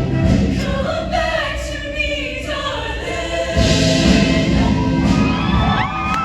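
Show choir singing full-voiced over a backing band's bass-heavy accompaniment, growing louder partway through. Near the end the audience's whoops and cheers rise over the music.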